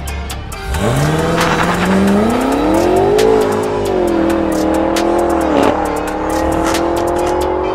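A high-powered car engine accelerating hard: its note climbs steeply about a second in and keeps rising, dipping briefly twice as it shifts up, with background music and a steady beat over it.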